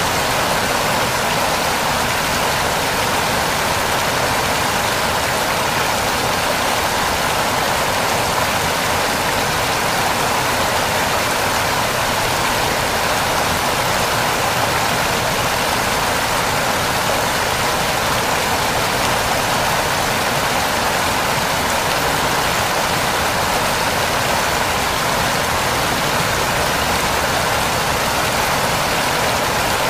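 A waterfall running: a steady, unchanging rush of falling water.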